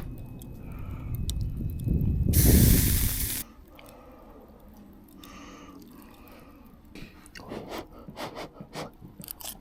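A person eating a hot soup meal. There is a loud, brief rushing noise about two and a half seconds in, like a slurp or breath, then quieter small clicks and taps near the end.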